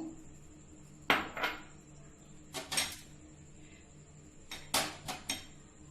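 A kitchen utensil clinking and tapping against a cooking pot in scattered sharp strokes: one or two about a second in, one near three seconds, and a quick cluster of about four near the end.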